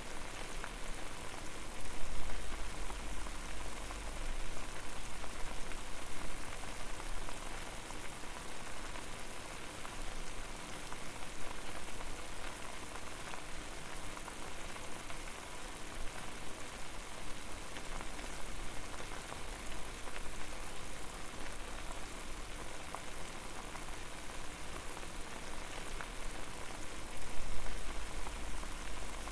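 Water at a steady boil over a fire: dense continuous bubbling and popping, with a low rumble swelling up about two seconds in and again near the end.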